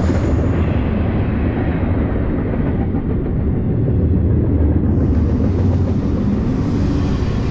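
Double-stack intermodal well cars loaded with containers rolling past: a steady, low rolling noise of steel wheels on the rails.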